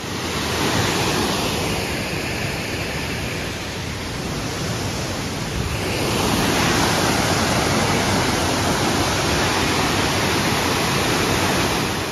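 Waterfall rushing in a steady, even roar of water noise, growing a little louder and brighter about halfway through.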